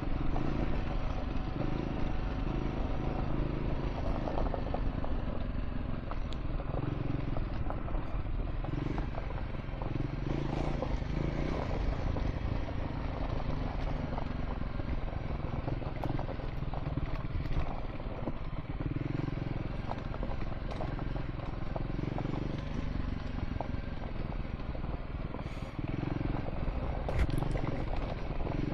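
Triumph Scrambler 400 X's single-cylinder engine running steadily while the motorcycle rides a gravel track, with tyres crunching and small stones clattering throughout.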